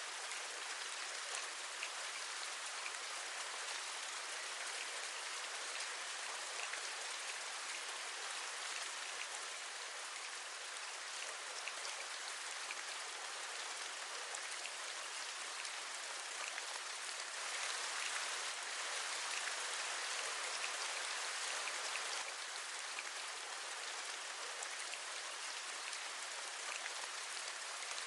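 Steady rain with small raindrop taps scattered through it. It swells a little louder for a few seconds past the middle, then settles back.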